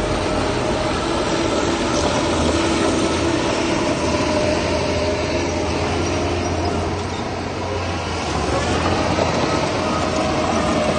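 Heavy diesel earthmoving machinery running steadily, a dense mechanical noise with a low hum and a faint steady whine; it eases off briefly about seven seconds in.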